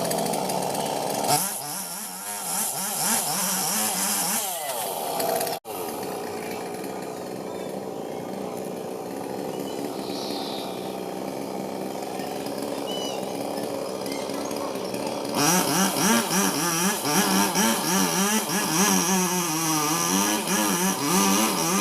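Two-stroke Robin Plus chainsaw running while felling a banyan tree, its engine speed rising and falling. It gets louder with a wavering pitch for the last several seconds, as when the saw works under load in the cut.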